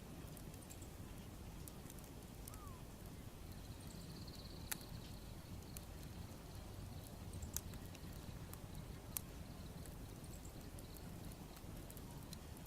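Wood bonfire crackling, with scattered small clicks and three louder pops, over a low steady rumble.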